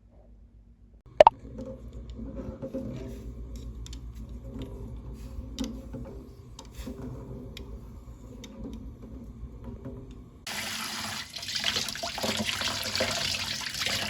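A sharp clack, then light clinks over a low hum; about ten seconds in, a water tap is turned on and water runs hard into a sink.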